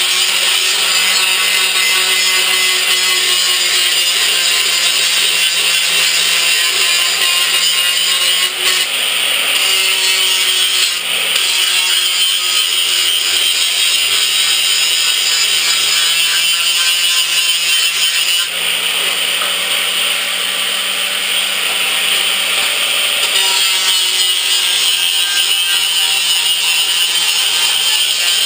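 Electric power tool cutting sheet steel: a steady motor hum under a continuous harsh cutting noise, which shifts slightly several times as the cut goes on.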